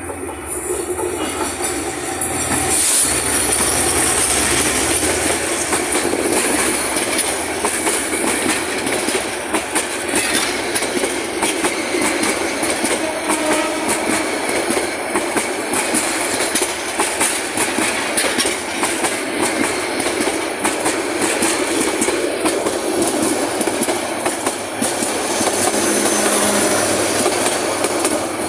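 Suborno Express intercity passenger train running past close by: wheels clattering over rail joints in a steady rapid clickety-clack, with a high wheel squeal above it. The sound swells about three seconds in and stays loud as the coaches go by.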